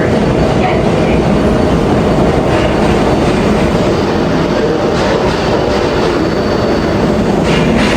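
An R142A subway train running on the rails with a steady, loud noise of wheels and motors; a thin high tone comes in about halfway through.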